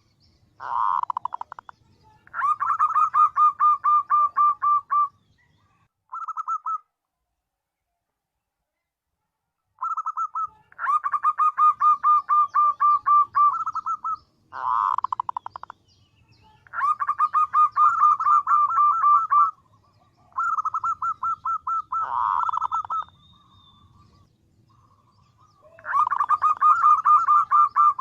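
Female zebra dove (perkutut) calling: runs of rapid, evenly spaced cooing notes, each lasting a few seconds, with a few shorter rougher bursts between them and a pause of about three seconds early on. This is a call used as a lure to draw in males.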